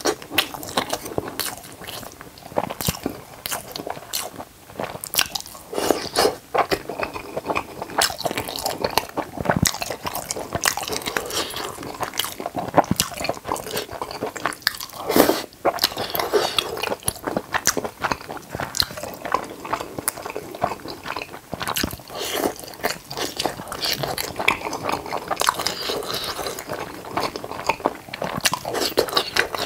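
Close-miked chewing and mouth smacking of a person eating sauce-coated tteokbokki rice cakes, fish cake and sausage. Wet, sticky bites and smacks come thick and irregular, several a second.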